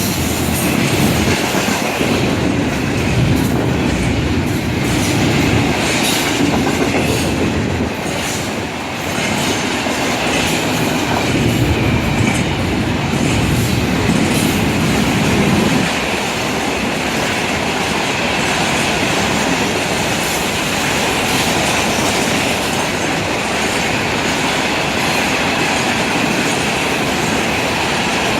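Freight train cars rolling past: a steady rumble and clatter of steel wheels on the rails, heavier for the first half and easing a little about halfway through, with a thin high wheel squeal in the later part.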